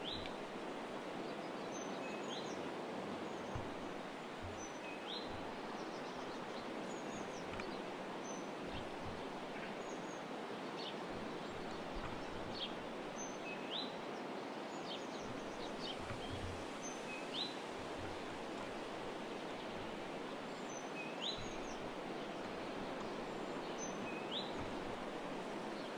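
Small birds calling over a steady outdoor hiss: short upward-sweeping chirps repeated every second or two, mixed with brief thin higher notes.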